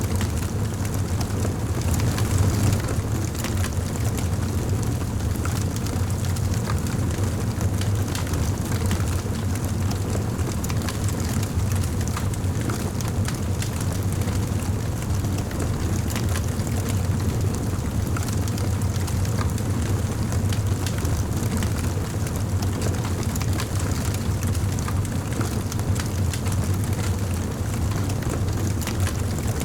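Wood fire burning in a fireplace, with many small sharp crackles over a steady low rumble.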